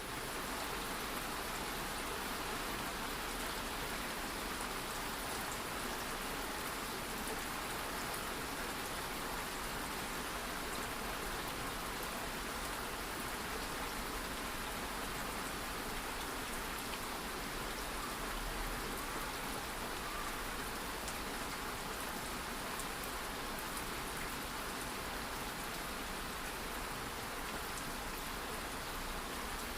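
Light rain falling steadily, a soft, even patter of raindrops on a surface.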